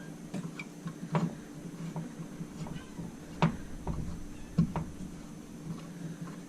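A string of sharp knocks and clunks, the loudest about a second, three and a half and four and a half seconds in, over a steady low hum. They come as a mud motor's transom mount is worked onto an aluminium boat's transom, which is too thick for it to slide on easily.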